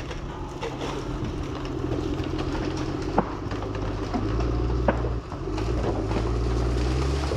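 A heavy machine's engine running as it pushes over a tree that has been weakened with a chainsaw, working harder about four seconds in. Two sharp cracks, about three and five seconds in.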